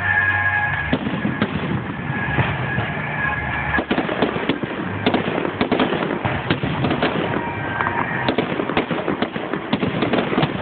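Fireworks going off: bangs and crackling that build into a dense, rapid barrage of cracks from about four seconds in.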